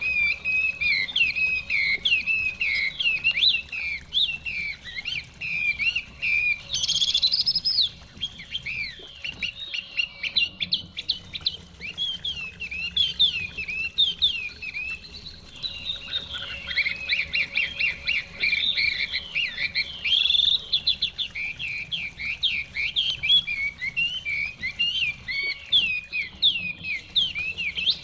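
Chinese hwamei songbirds singing continuously: a dense run of quick, sweeping whistled notes and trills with songs overlapping.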